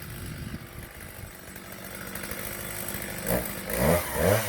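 Chainsaw engine running at idle, then blipped up and down in quick revs about twice a second near the end.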